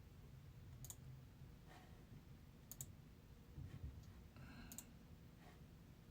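Near silence broken by a few faint, sharp clicks, each a quick double click, about two seconds apart.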